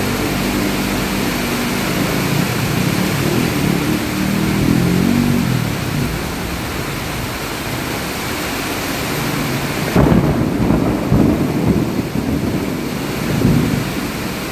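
Steady rain with thunder: a low rolling rumble over the first few seconds, then a sudden sharp thunderclap about ten seconds in, followed by rumbling that swells again near the end.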